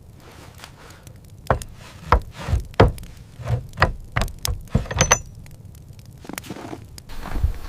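A quick, irregular series of knocks or chopping blows, about a dozen strikes in under four seconds, followed by softer rustling and a last thump near the end.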